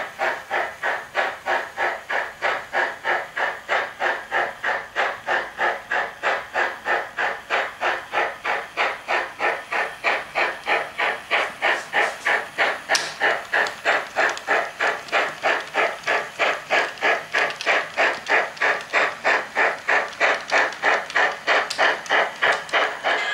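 Sound decoder of a Trix HO-scale Big Boy model playing steady steam-locomotive exhaust chuffs, about three a second.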